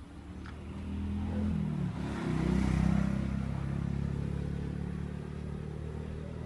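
A motor vehicle engine passing by, growing louder to a peak about three seconds in and then slowly fading.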